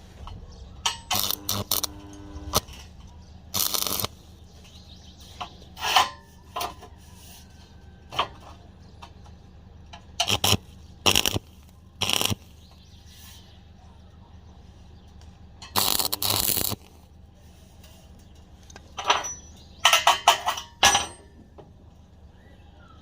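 Iron pipe being worked with metalworking tools: a dozen or so short, harsh scraping bursts at irregular intervals, a few with a brief metallic ringing or squeal, over a faint steady low hum.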